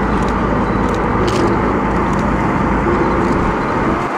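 Steady low rumble of a boat engine running.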